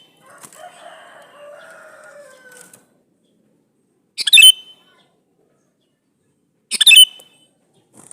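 Male sooty-headed bulbul calling: two short, loud, bubbly phrases about two and a half seconds apart, with fainter, lower sounds in the first few seconds. It is a male's call to females, played as a lure to make other bulbuls answer.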